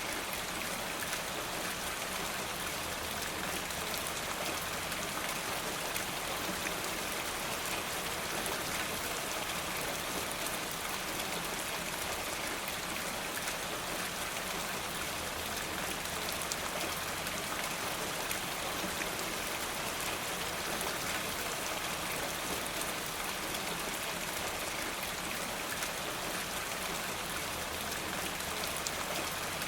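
Steady rain falling, a constant hiss with many small, quick drop ticks.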